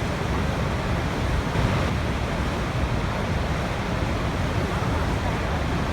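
Waterfall, water pouring and splashing in a steady, unbroken rush, heaviest in the low end.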